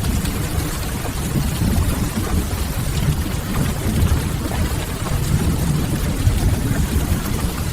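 Rain-and-fireplace ambience: steady rain on window glass over a low, even rumble, with faint crackles of burning firewood.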